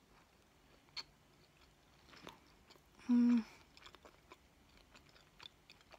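Mouth sounds of someone chewing a soft raw brownie with her mouth closed, faint wet clicks scattered throughout and a sharper one about a second in. About three seconds in she gives one short hummed "mm", the loudest sound.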